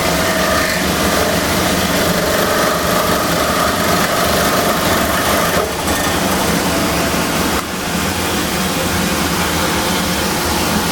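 A woodworking power tool running steadily with a loud mechanical whir, cutting wood. A faint steady tone in it fades out about six seconds in.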